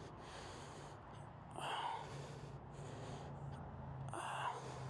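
A person breathing hard close to a helmet microphone, with two louder breaths about a second and a half and four seconds in, over a faint steady low hum.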